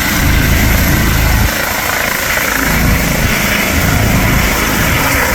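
Helicopter running as it takes off: a steady rotor and engine noise. A heavy low rumble drops away about a second and a half in.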